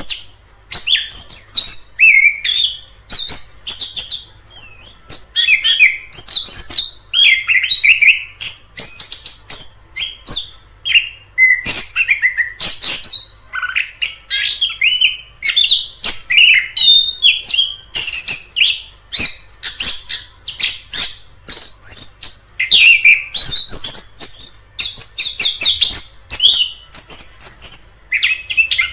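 Chestnut-capped thrush (anis kembang) singing: a continuous string of short, varied, high whistled and warbled phrases, each a second or less, following one another with only brief pauses.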